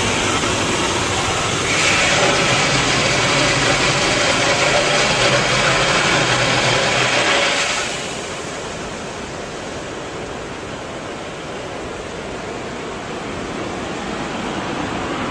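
Automatic car wash equipment working over the car, heard from inside the cabin: a steady rushing noise, loud for the first eight seconds or so, then dropping to a softer rush.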